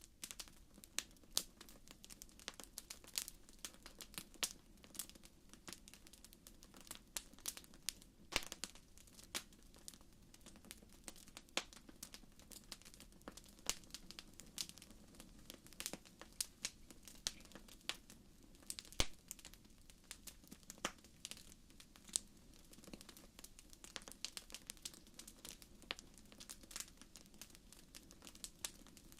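Wood fire crackling in a fireplace: irregular sharp pops and snaps, several a second, over a faint low hiss of the burning.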